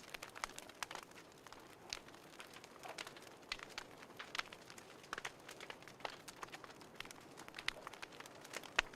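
Wood fire crackling: irregular small pops and snaps over a soft hiss, with one sharper snap near the end.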